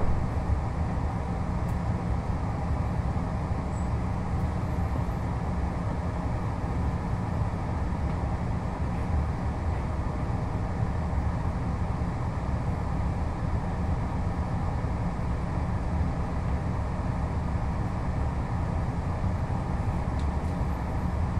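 Steady low rumble inside the carriage of a Puyuma tilting express train, a TEMU2000 electric multiple unit, as it moves along the station platform.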